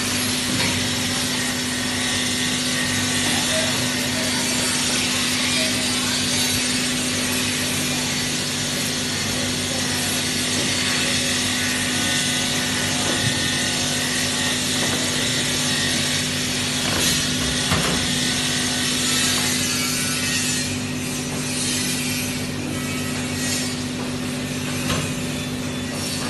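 TIG welding arc on stainless steel sheet, a steady hiss over a constant hum. About twenty seconds in, the hiss turns uneven and crackly.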